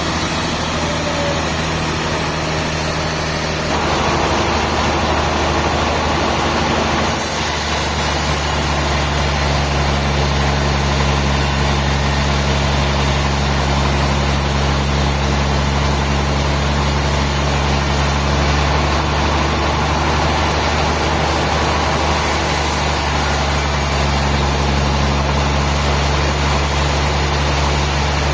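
A heavy engine running steadily, its note shifting about four seconds in and again about seven seconds in.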